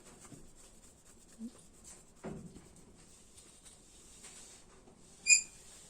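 Small metal parts handled while a piston-pin circlip is fitted to a motorcycle piston: faint scattered clicks and scrapes, then one short, high, ringing ping about five seconds in, the loudest sound.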